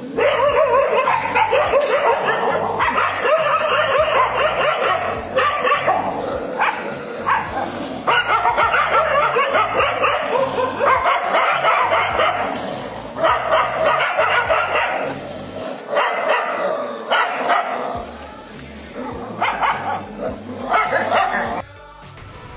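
Dog barking and yipping, the barks coming in dense rapid runs with short pauses between them, thinning out toward the end.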